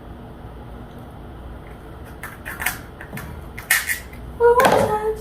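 Close-up mukbang eating noises: a few short crackling, sucking sounds of seafood being handled and eaten, then a louder burst near the end with a brief hum of the voice.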